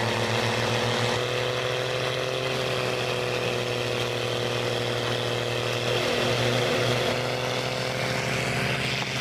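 A tractor-driven wood chipper running steadily, its engine and drive giving a continuous drone. The pitch sags briefly and the sound grows a little louder about six seconds in.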